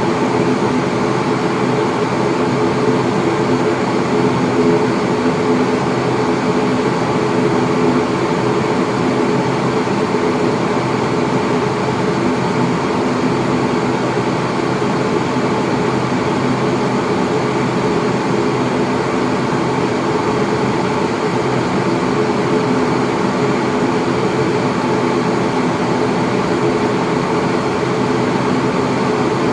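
ATR 42-600's Pratt & Whitney PW127M turboprop engines and propellers heard from inside the cabin, running at low power while the aircraft taxis after landing. A steady drone with several steady low tones that does not change.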